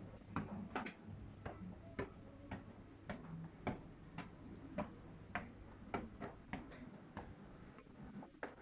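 A series of light, sharp clicks at uneven intervals, about two or three a second, over a faint steady hum.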